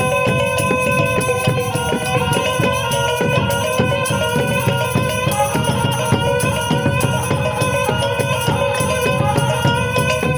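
Minangkabau traditional music: a pupuik reed pipe plays a held, wavering melody over talempong gong-chimes and percussion struck in a fast, even rhythm.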